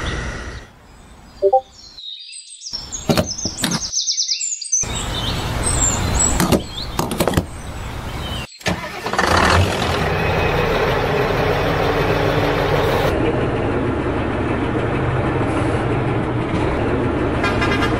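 Edited audio with abrupt cuts: a few sharp clicks and knocks in the first half, then a vehicle engine running steadily from about halfway on.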